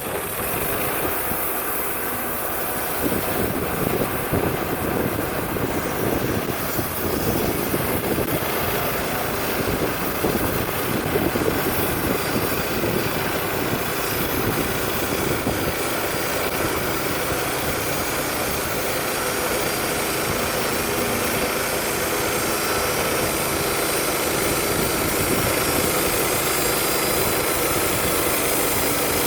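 Wood-Mizer LT35 portable band sawmill running steadily, its engine and band-saw drive making a loud, even mechanical noise that starts suddenly at the outset.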